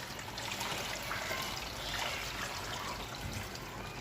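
Water being poured into the water tank of an evaporative air cooler, a steady trickling splash.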